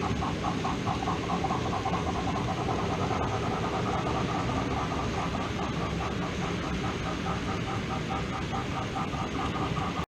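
OO gauge model train running on the layout: a steady, evenly repeating beat over a constant hiss.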